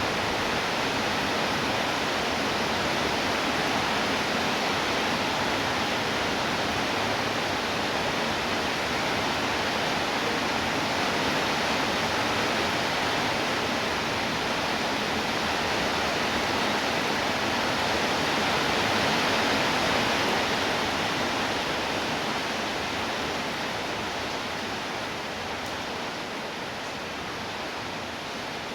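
Steady rainfall: a dense, even hiss of rain with no separate drops standing out, growing a little softer over the last several seconds.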